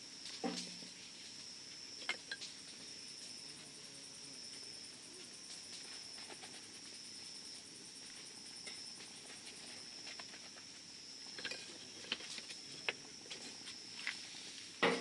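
Wood campfire crackling, with scattered sharp pops, the loudest near the end, over a steady high trill of crickets or similar insects.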